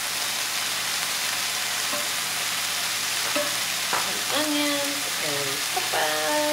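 Venison stir-fry frying in a skillet on a gas burner with a steady sizzle, stirred with a wooden spatula.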